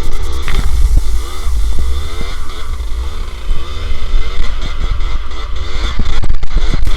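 Dirt bike engine revving up and down repeatedly, its pitch rising and falling several times over a heavy low rumble.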